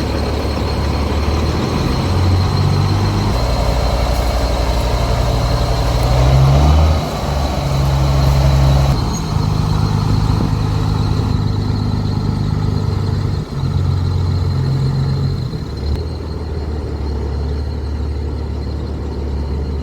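Peterbilt semi truck's diesel engine running on the road, its pitch stepping up and down several times, with one short rise about seven seconds in.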